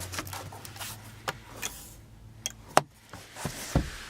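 A series of sharp clicks and knocks, about eight in four seconds with the loudest near the end, over a low steady hum.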